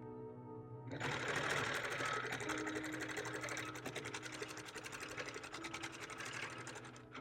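Longarm quilting machine stitching, its needle running at a fast, even rate of many strokes a second. The stitching starts about a second in and stops just before the end.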